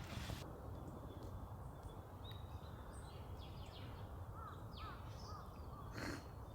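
Outdoor ambience with a steady low rumble. A bird gives a short series of about four quick calls a little past the middle, with a brief rustle near the start and another near the end.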